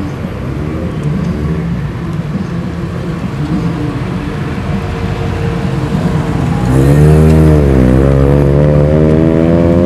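Car engines running as cars drive past. About seven seconds in, a much louder engine comes close, its pitch dipping and then climbing and holding as it pulls away under throttle.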